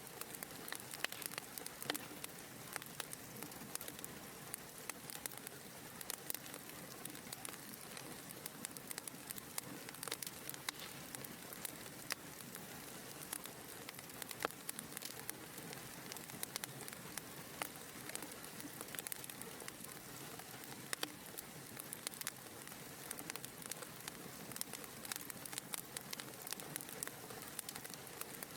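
Wood fire crackling in a fireplace: a steady soft hiss of flames with many small, sharp crackles and pops, several a second.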